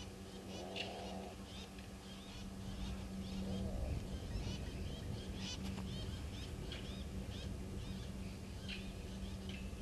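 Birds calling over and over in short, rapid chirps, with two brief lower calls about a second in and just before four seconds in: animals alarm-calling at a leopard hidden in the bush.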